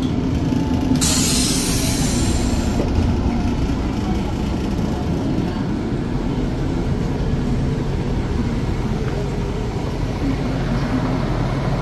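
Steady low rumble of a stationary passenger train running at the platform, with a brief hiss about a second in.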